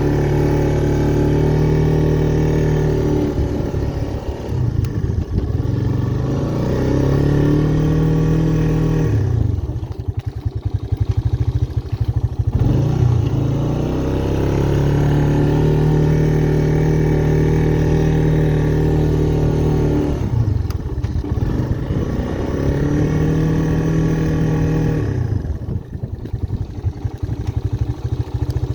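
Honda ATC Big Red 250ES three-wheeler's single-cylinder four-stroke engine working while plowing snow: it holds a steady high speed, drops back to near idle about a third of the way in and again near the end, then revs back up each time.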